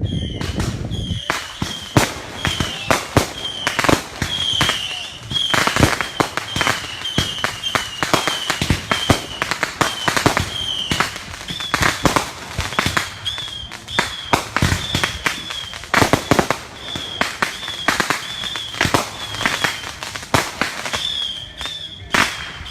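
Fireworks going off in a dense, continuous run of bangs and crackles, with a short high chirp repeating about twice a second.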